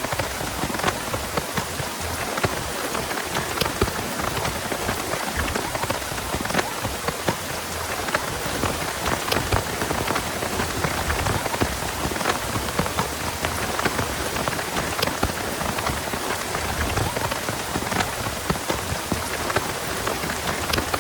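Heavy rain falling steadily, with many separate drop impacts ticking through the constant hiss.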